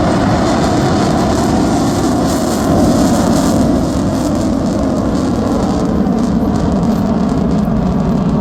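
Blue Angels F/A-18 Super Hornet jets flying over, their engines making a steady, loud roar that swells briefly about three seconds in, with a faint tone slowly dropping in pitch.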